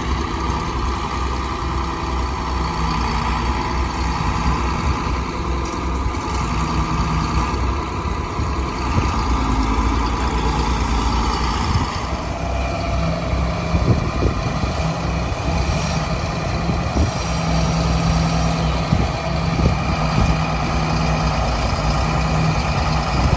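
Tractor engine running steadily while stacking hay bales; its note changes about halfway through.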